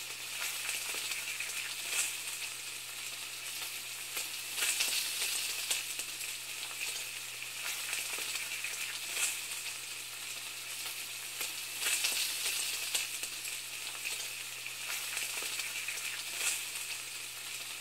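Steady sizzling and crackling like food frying in a pan, with scattered louder pops and a faint low hum underneath.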